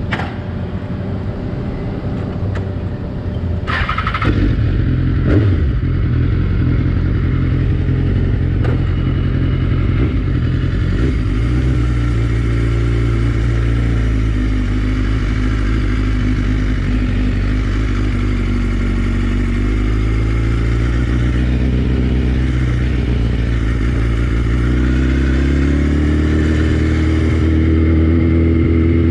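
Superbike engine fitted with an Akrapovič exhaust, running steadily under way, its pitch climbing from a little before the end as the revs rise. A short sharp knock sounds about four seconds in.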